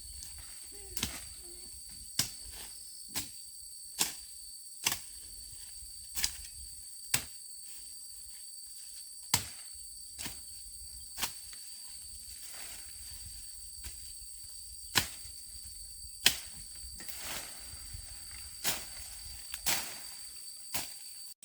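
A series of sharp, short knocks, irregularly spaced at about one a second, over a steady high-pitched insect drone.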